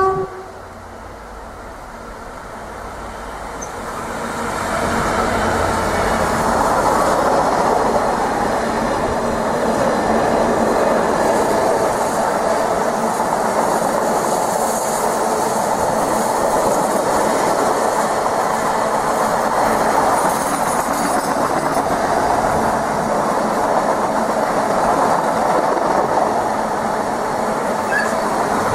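A train running past on the rails, its wheels clattering over the track, building over the first five seconds and then steady and loud. A short horn toot comes right at the start.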